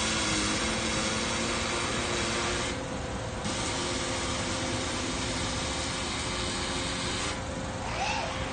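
Robotic welding line in a car exhaust factory: a steady machine hum under a loud hiss that breaks off for about a second around three seconds in and again near the end.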